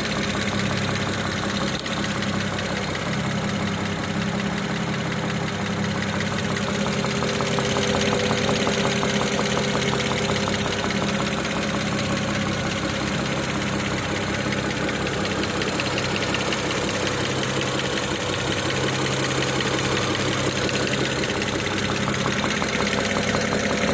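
BMW N54B30 twin-turbo straight-six idling steadily once warmed up after about eight minutes, with a repeating knock that the owner reports is absent when the engine is cold.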